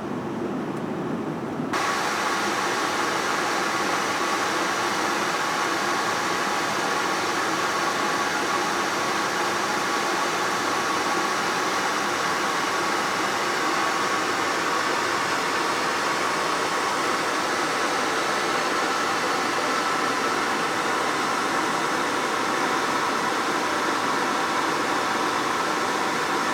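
Steady jet-engine and airflow noise inside the cabin of a Boeing 787-9 powered by GE GEnx-1B engines, a continuous hiss with a faint steady whine in it. About two seconds in it shifts abruptly from a duller, lower noise to a brighter one.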